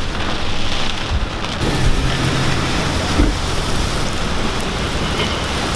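Heavy hurricane rain and wind beating on a car, heard from inside the cabin: a steady, loud hiss of rain on the roof and glass, with a couple of dull low thumps about two and three seconds in.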